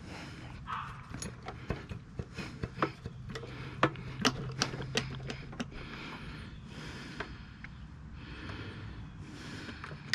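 Hand tools and metal engine parts clicking and knocking irregularly as a Tecumseh snowblower engine is worked apart, with a few short swishes in between.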